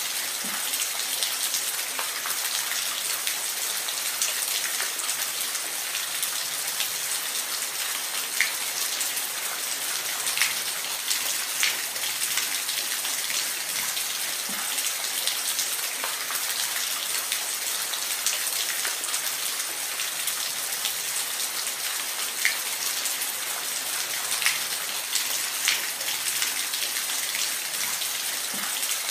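Steady rainfall, an even hiss with scattered louder single drops ticking now and then.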